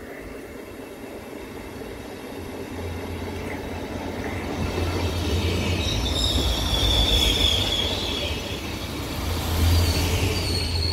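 ODEG regional train approaching and running past close by. Its running noise and low hum build up as the cars go by, and a high squeal sounds twice, in the middle and near the end.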